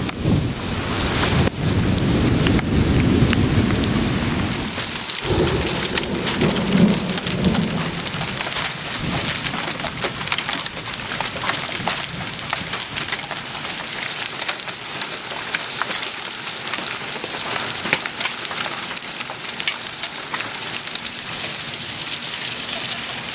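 Heavy thunderstorm rain falling steadily, with thunder rumbling through the first several seconds and then dying away, leaving the rain.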